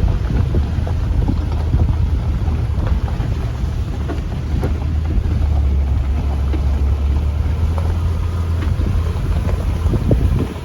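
A Jeep driving along: steady low engine and road rumble with wind buffeting the microphone and scattered small knocks.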